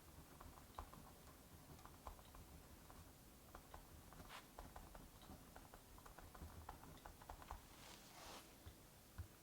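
Faint fireplace crackle: many small irregular snaps over a steady hiss of rain, with two brief soft swishes, one about halfway and one near the end.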